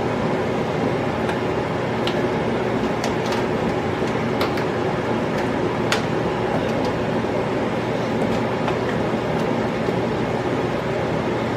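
A steady rushing noise at an even loudness, with a few light clicks scattered through it.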